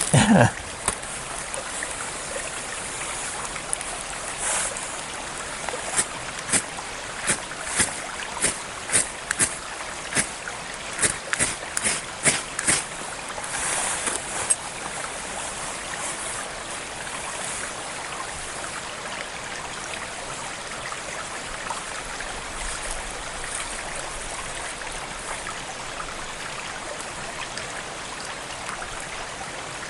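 Ferro-rod fire starter being struck with a scraper, a quick run of about fifteen short scrapes in the first half, throwing sparks to light a campfire. A steady stream runs underneath.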